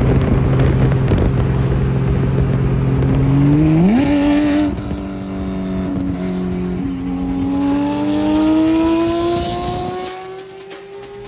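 Car engine running steadily, then revving up quickly about four seconds in with a short hiss, and then pulling hard through a gear with slowly rising pitch before easing off near the end.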